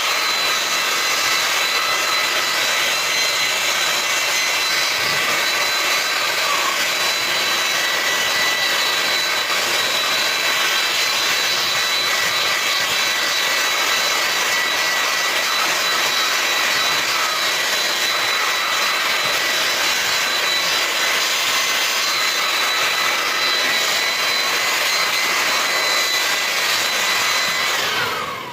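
High-speed die grinder (pin grinder) running steadily with a high whine, grinding carbon off turbocharger parts; near the end it switches off and the whine falls as it spins down.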